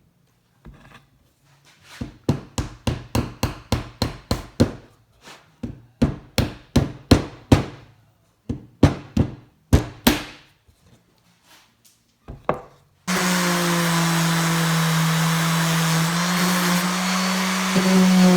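A hammer driving nails into wood, with quick strikes about three a second in three runs. About thirteen seconds in, an electric power tool starts and runs steadily with a constant hum.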